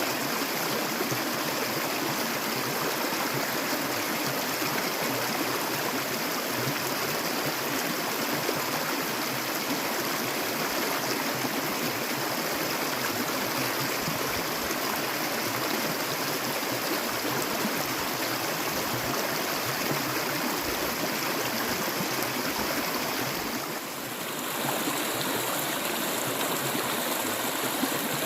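Clear stream water flowing steadily, a continuous even wash of water with gurgling. The sound dips briefly about three quarters of the way through, then carries on with a slightly changed character.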